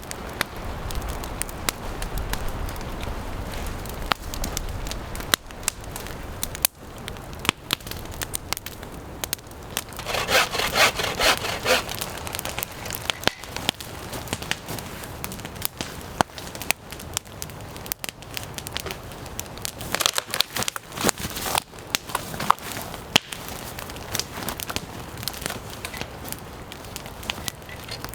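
Wood campfire crackling, with scattered sharp pops and snaps. About ten seconds in, a two-second burst of dense scratchy rubbing noise is the loudest thing.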